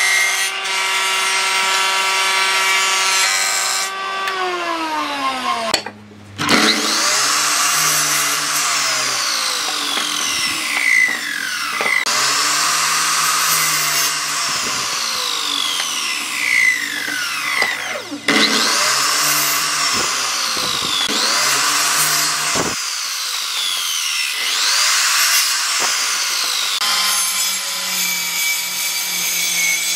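Electric power tool working wood. Its motor note winds down and cuts out briefly, then runs on with its pitch repeatedly sweeping down and back up as it is loaded and eased.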